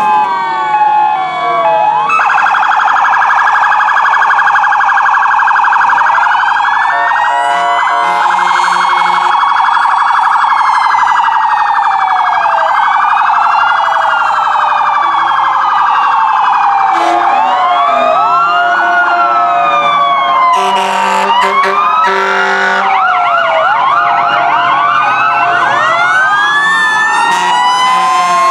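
Sirens of several emergency vehicles, mostly fire trucks, sounding together: many wails rising and falling out of step with each other, with a rapid yelping stretch through the first half, over steady pitched tones.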